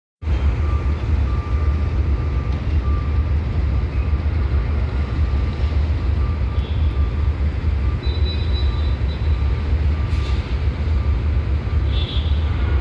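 Passenger train running through a station without stopping, a steady heavy low rumble, with an intermittent high tone sounding on and off through it.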